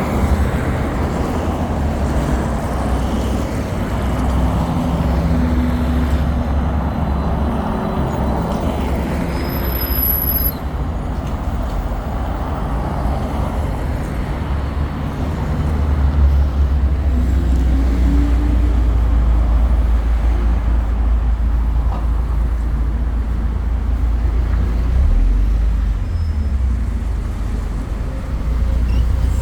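LiAZ 5292.67 city bus with its Weichai WP7NG280E51 compressed-natural-gas engine running as it drives, heard from inside the bus: a steady low rumble with road noise. A brief high electronic beep sounds about ten seconds in.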